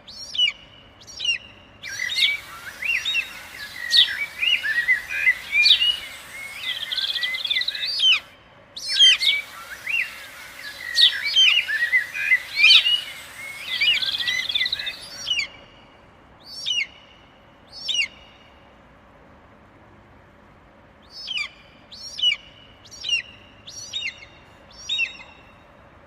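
Forest birdsong sound effect: repeated short, sharp, falling chirps, joined twice by a dense chorus of many birds over a hiss. The chorus cuts in and out abruptly, from about two seconds in to about eight, and again from about nine to fifteen.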